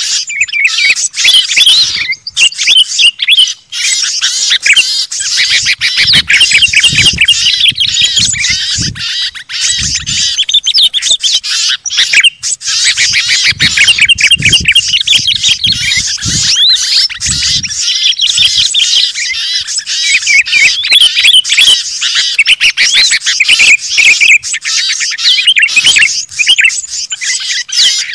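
Dense, continuous chorus of many small songbirds chirping and chattering at once, a busy mixed-species bird-lure recording. Low rumbles come and go through the middle.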